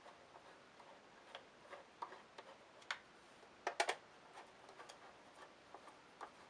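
Irregular small clicks and ticks of a screwdriver and screws being worked into the vacuum cleaner's hood, with a quick cluster of sharper clicks a little under four seconds in.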